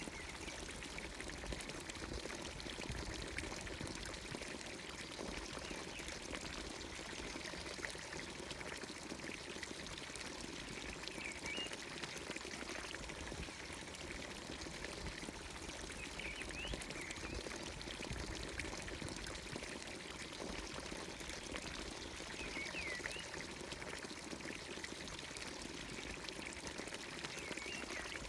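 Water pouring steadily from the spout of a traditional village fountain into its trough, with short bird chirps a few times.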